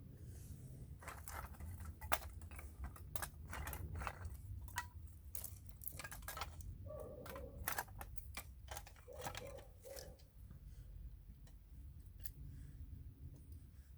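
Split oak firewood pieces knocking and clacking together as they are handled and stacked: irregular sharp clicks and knocks, some with a short hollow wooden ring, thinning out after about ten seconds, over a low steady rumble.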